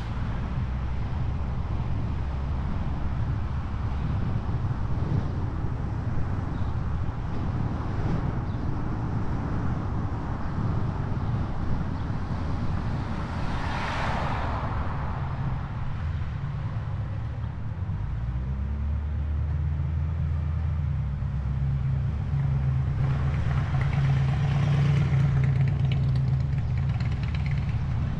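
An engine running with a steady low hum. About halfway through, a whoosh swells and fades, and a few seconds later the engine's low note shifts and grows slightly louder.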